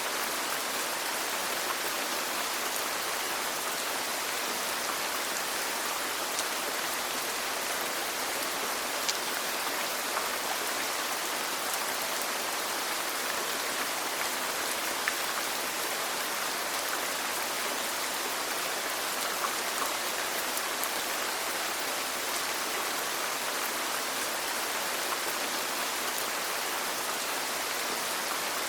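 Steady rainfall, an even hiss with scattered faint drop ticks.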